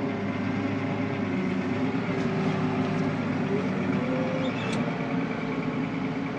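A farm machine's engine running at a steady speed, giving a low, even hum.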